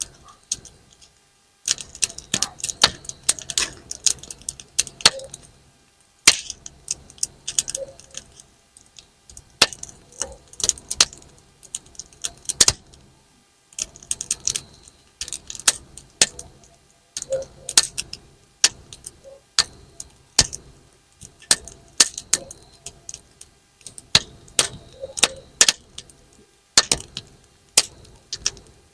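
Firewood burning in a campfire, crackling with sharp, irregular pops and snaps that sound like bang snaps thrown on the ground.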